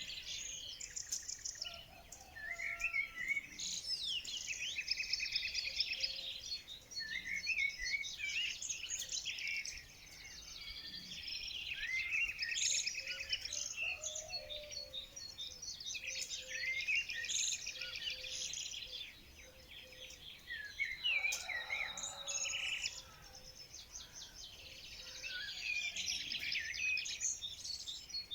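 Several songbirds singing at once: dense, overlapping chirps, rapid trills and whistled notes, with a few short lulls.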